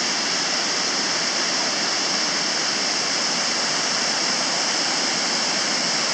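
Waterfall pouring: a steady, even rush of falling water with a strong hiss.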